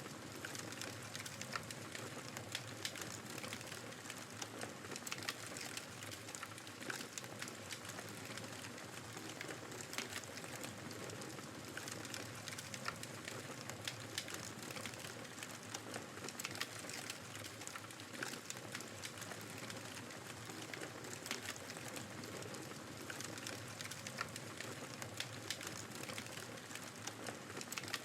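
Wood fire crackling with frequent, irregular sharp pops over a steady rush of blizzard wind.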